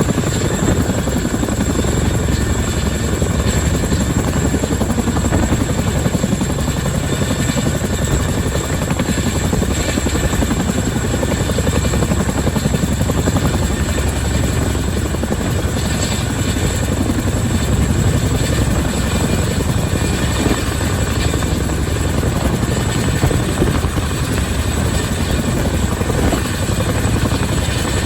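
Boeing CH-47 Chinook tandem-rotor helicopter running close by, a loud, steady rotor chop with turbine noise that holds level throughout.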